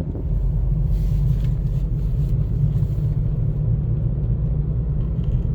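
Steady low rumble of a moving car, heard from inside.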